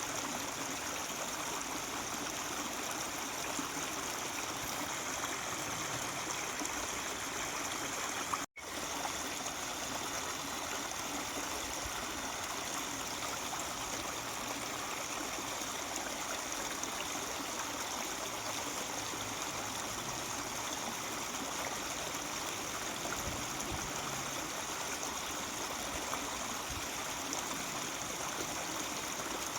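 Mountain stream murmuring steadily, with a momentary gap of silence about eight seconds in.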